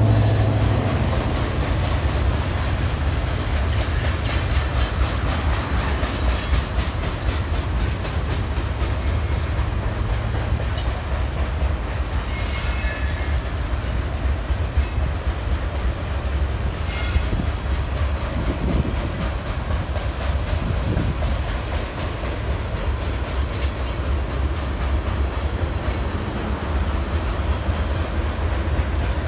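A train rolling past with a steady heavy rumble and a continuous run of wheel clicks over the rail joints. A brief high wheel squeal comes about twelve seconds in.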